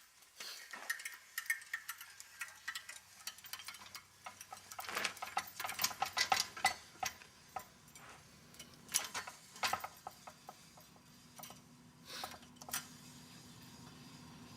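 Quick metallic clicks and clinks as the Ringmaster tire-mounting tool is released and handled on a loader wheel. The clicks are densest a few seconds in and then come singly. A steady low hum starts about ten seconds in.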